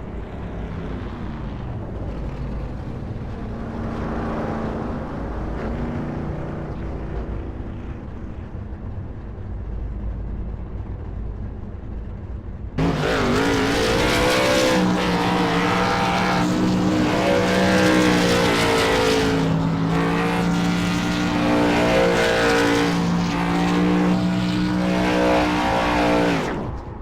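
Race car engines running at speed. A car's engine rises and falls as it passes, then the sound cuts suddenly, about halfway through, to a much louder, close engine holding steady pitches, which stops abruptly near the end.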